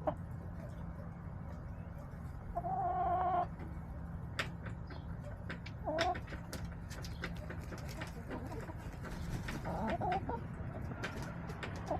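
Backyard hens clucking, with one drawn-out call about two and a half seconds in and shorter calls near six and ten seconds. Many small sharp clicks and taps run through it over a steady low rumble.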